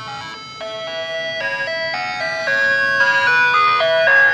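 Ice cream truck's electronic chime playing a simple music-box style melody, growing louder as the truck approaches.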